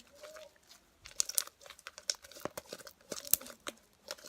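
Homemade slime being kneaded and stretched by hand: a quick run of sticky clicks and small crackles, several a second.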